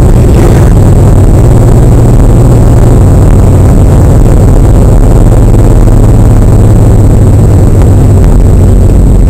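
Porsche 911 Turbo's 3.4-litre flat-six engine driving the car along at a steady pace, a constant low drone that stays very loud; its note drops slightly about three seconds in.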